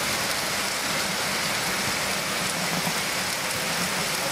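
Steady rain falling, an even hiss of drops on wet ground.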